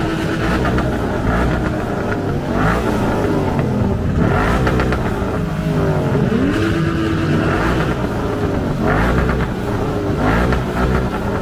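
Car engines revving and accelerating, with engine notes rising and falling throughout.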